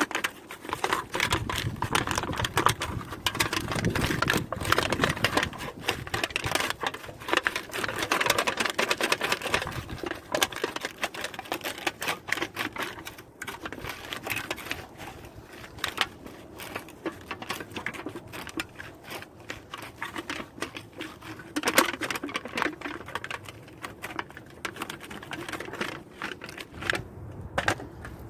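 Wood campfire crackling, with a dense run of small irregular snaps and a few louder pops.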